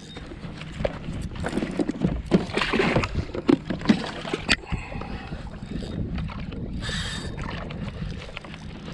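Water sloshing and gurgling against a kayak's hull, with a run of irregular knocks and clatter from about one and a half to four and a half seconds in.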